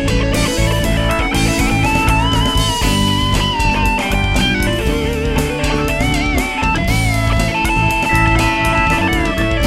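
Rock band playing an instrumental break: a lead guitar plays bent, wavering notes over drum kit and bass guitar.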